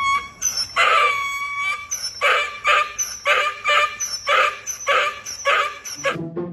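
An animal calling in a quick, even series of short pitched cries, about two a second, stopping about six seconds in.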